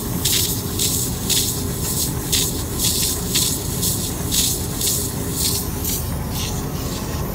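Milking machine pulsators hissing in a steady rhythm, about two short air puffs a second, over a constant low hum from the milking system's vacuum.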